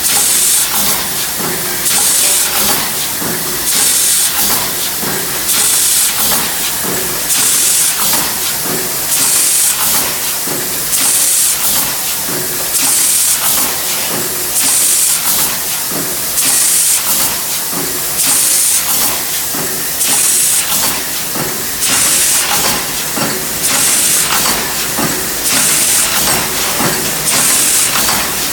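A bolt-making factory machine running in a repeating cycle, with a sharp burst of air hiss about every one and a half to two seconds over a clatter of metal knocks.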